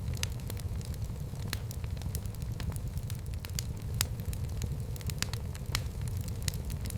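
Fireplace fire crackling: irregular sharp pops and snaps over a steady low rumble of the burning.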